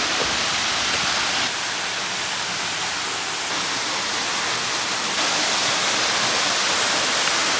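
Waterfall: a steady rush of falling water, dipping slightly about a second and a half in and growing a little louder about five seconds in.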